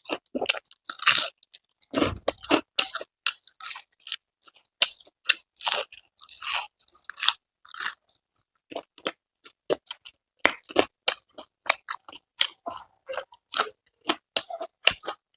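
Close-up crunching and chewing of a crispy deep-fried water spinach (kalam saag) pakoda, with many short, irregular crunches and a brief pause a little after the middle.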